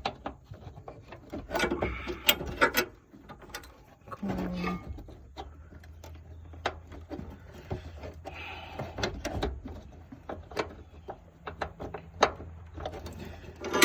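Irregular clicks and knocks of hand tools and bolts being handled during work on a truck's fuel tank mounting, over a low steady hum.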